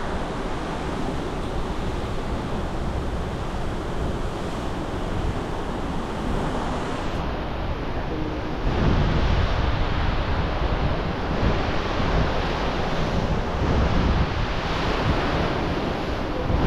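Steady rushing of wind on the microphone over the wash of the sea, swelling in gusts a few times.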